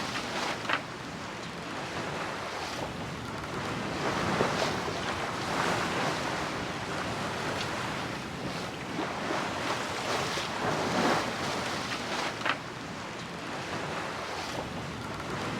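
Sea water rushing and splashing along a sailboat's hull under way, with wind on the microphone. The rush swells and eases with the waves, with a few sharper splashes.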